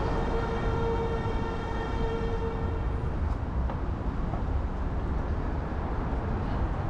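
City traffic noise with a low, steady rumble, and a vehicle horn sounding one steady note for about three seconds at the start before fading.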